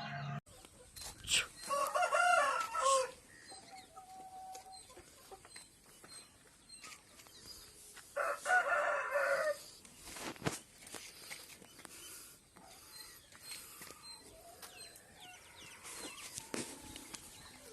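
Aseel rooster crowing twice, each crow a little over a second long and about six seconds apart, with softer clucking and a few sharp clicks in between.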